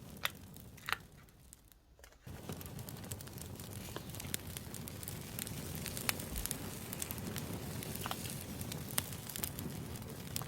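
Campfire crackling: a steady low hiss dotted with sharp pops and snaps, dropping away briefly about a second in before picking up again.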